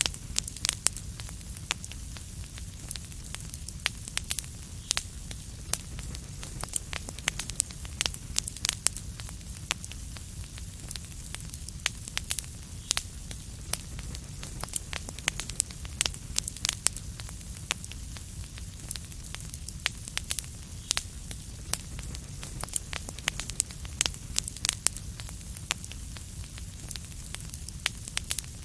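Fireplace fire crackling: frequent, irregular sharp pops and snaps over a steady low rumble and soft hiss.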